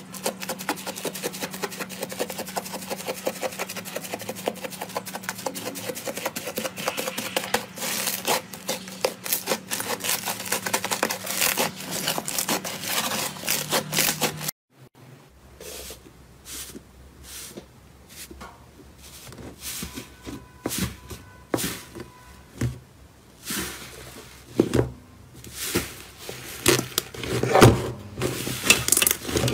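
Slime being squeezed and poked by hand, giving dense crackling clicks at first, then after a cut about halfway through, slower separate pops and clicks.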